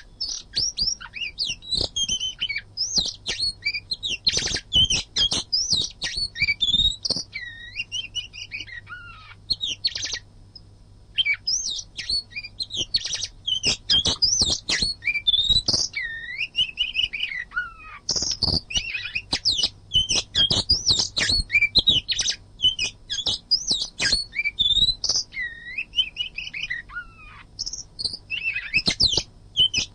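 Oriental magpie-robin (kacer) singing a dense, fast run of varied whistles, chirps and sliding notes, almost without a break, with a short pause about ten seconds in.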